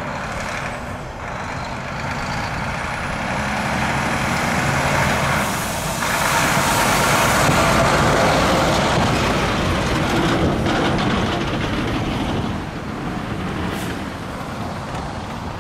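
CSX double-stack container train passing: a steady rumble and rattle of freight cars rolling over the rails. It swells to its loudest about six to nine seconds in, then eases off.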